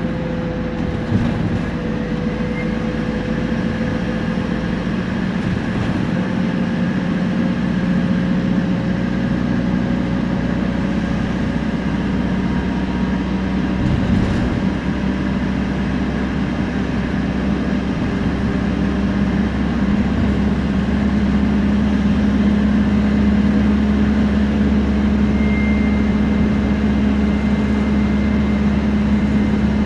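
Temsa Prestij SX bus under way: engine running with a steady drone and turbo and differential whine. In the second half a low whine grows stronger and climbs slightly in pitch, and a thin high whistle joins near the end.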